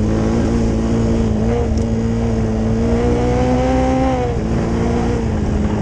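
125cc dirt bike engine running on the trail, its pitch creeping up under throttle and then dropping suddenly about four and a half seconds in, as at a gear change or the throttle closing.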